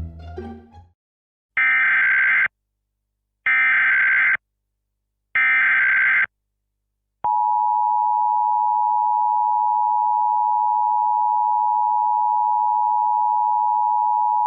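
Emergency Alert System header: three one-second bursts of buzzing digital data (the SAME code), each followed by a second's gap, then the two-tone EAS attention signal, a loud steady tone, starting about seven seconds in and holding on.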